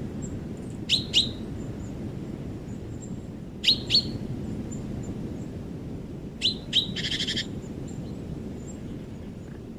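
Songbird calling in paired short, rising chirps, three pairs spaced a few seconds apart, with a harsh buzzy call just after the third pair. A steady low rumble runs underneath.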